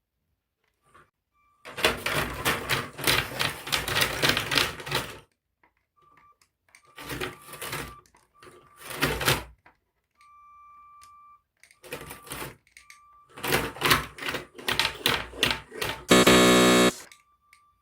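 Lego Power Functions M motor driving a Lego car through sand, in several bursts of rapid plastic clattering from the gears and wheels. Between the bursts the motor gives a thin, high, steady whine, and a short buzz comes near the end.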